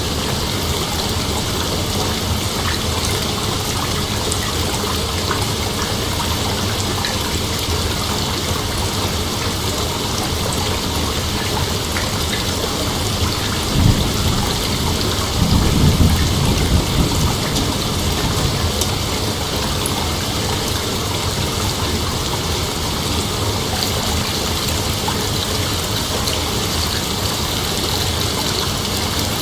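Steady, dense chorus of night insects, with a low rumble rising briefly at about 14 seconds and again between about 15 and 17 seconds.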